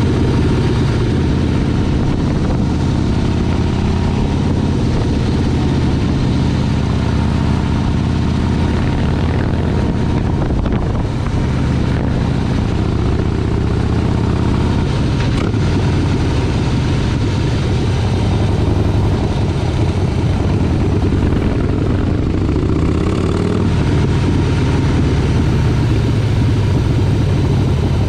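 Motorcycle engine running continuously while being ridden, holding a fairly steady speed, with a brief rise in engine pitch a little after two-thirds of the way through.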